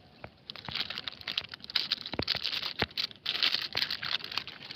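Old plastic litter crinkling and crackling as it is pulled from the soil and handled, with many sharp clicks and snaps; it starts about half a second in.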